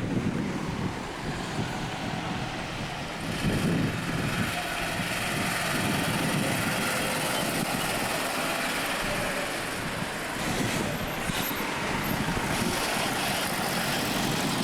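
Street traffic: motor vehicles running and passing.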